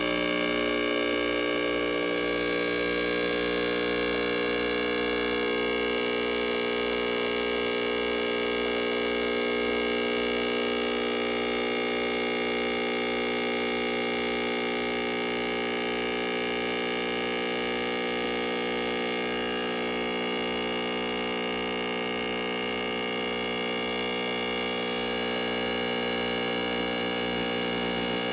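Ariete Cremissima espresso machine's pump running steadily with a loud buzzing hum while it pulls a double espresso shot.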